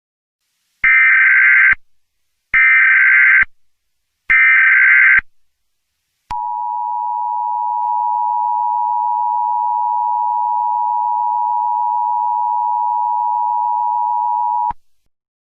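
Emergency Alert System activation: three bursts of SAME header data tones, about a second each, followed by the steady two-tone EAS attention signal, held for about eight seconds before it cuts off.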